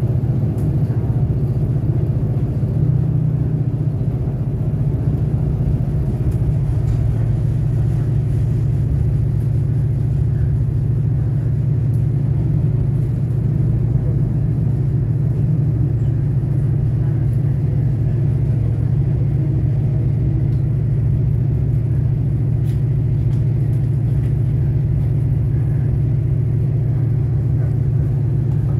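Diesel railcar running at speed, heard from inside the passenger cabin: a steady low drone with rumble from the wheels on the track, and a few faint clicks.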